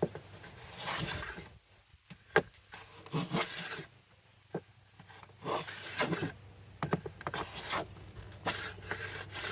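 Plow plane pushed back and forth in a groove in a wooden board, several short irregular rubbing strokes with a sharp knock or two. The depth stop is riding on the wood, so the plane slides without cutting.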